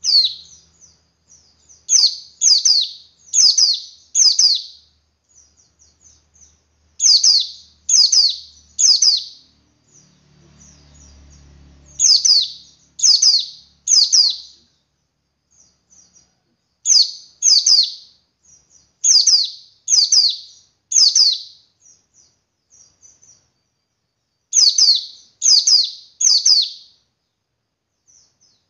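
Male white-eye (pleci) calling: clusters of three or four loud, high, downward-sliding notes every few seconds, with soft quick chirps between the clusters.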